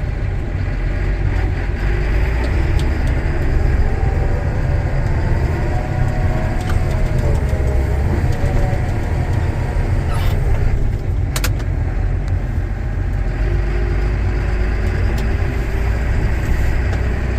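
Tractor engine running steadily with a deep rumble, heard from inside the cab as it pushes through drifted snow, its pitch wavering with the load. A couple of sharp clicks come about two-thirds of the way through.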